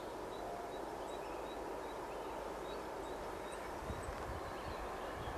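Small birds chirping in short repeated calls over a steady distant rumble, with a few low buffets of wind on the microphone about four seconds in.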